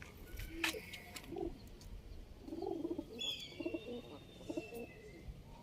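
Domestic pigeons cooing faintly in a loft, with a few soft low coos about two and a half to four and a half seconds in and some brief high chirps over them.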